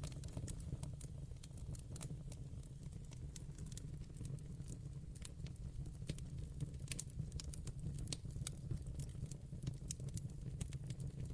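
Fire crackling in a fireplace: irregular sharp pops and snaps, several a second, over a steady low rumble.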